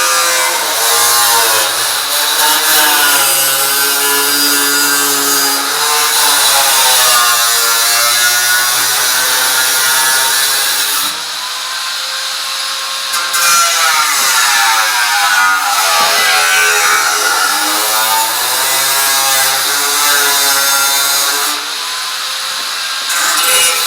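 Electric power drill running in long stretches, its motor whine rising and falling in pitch as it speeds up and slows under load, easing off briefly about eleven and twenty-one seconds in.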